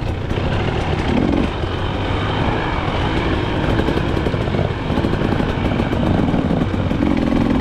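KTM 300 XC-W two-stroke single-cylinder dirt bike engine running under way, its revs rising and falling with the throttle.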